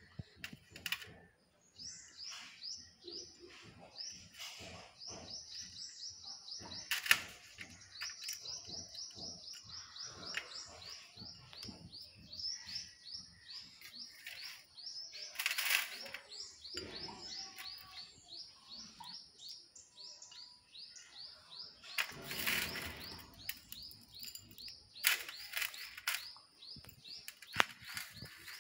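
A bird chirping in a long, fast, steady series, several short chirps a second. A few louder knocks and scrapes come from a spoon and ceramic bowl being handled on a steel plate.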